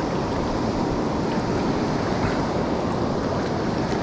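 Steady rushing noise of wind buffeting the microphone over moving river water.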